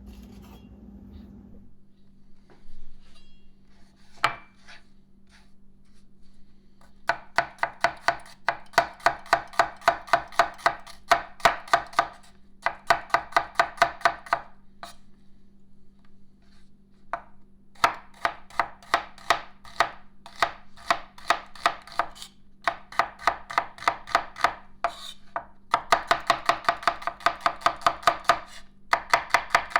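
Knife chopping shallots on a bamboo cutting board, in several runs of quick, even strikes about four a second, with short pauses between the runs.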